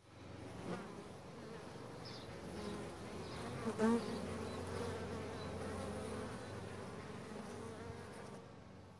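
A honeybee swarm buzzing: the steady hum of many bees, swelling briefly louder about four seconds in as a bee passes close, then fading near the end.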